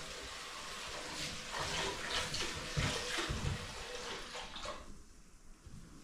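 Water running and splashing as something is washed, with a few low knocks, stopping about five seconds in.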